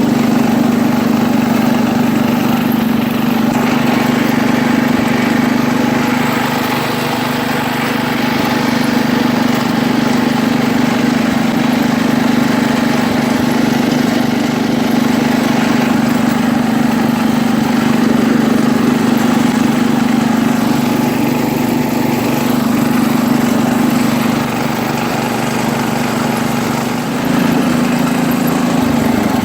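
1973 International Harvester Cub Cadet 86 garden tractor's single-cylinder Kohler engine running steadily as the tractor drives along, its note shifting up slightly near the end.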